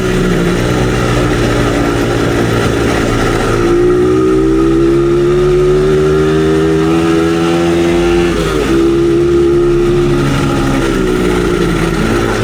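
Dirt bike engine running under way, its pitch climbing slowly, with brief dips about four and eight and a half seconds in.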